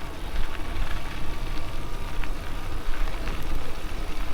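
Steady rumble and hiss of riding an e-bike, with tyre and wind noise, a faint thin whine and a few light clicks.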